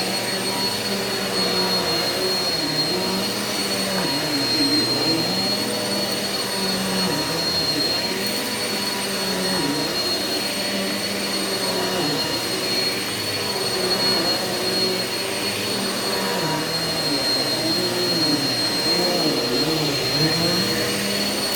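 Eureka vacuum cleaner running continuously while pre-vacuuming dry soil from carpet: a steady high whine over a lower motor hum whose pitch wavers up and down every second or two.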